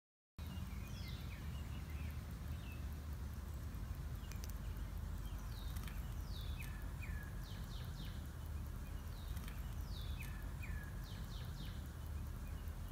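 Outdoor ambience: a steady low rumble, with a bird repeating short, downward-sliding chirps in small groups every second or two.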